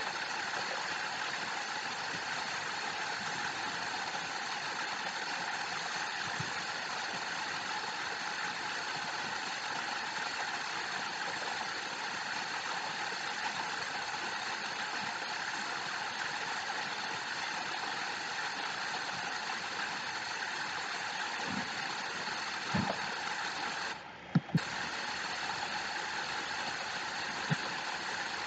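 Waterfall rushing steadily. The sound cuts out for about half a second near the end, with a few soft knocks around it.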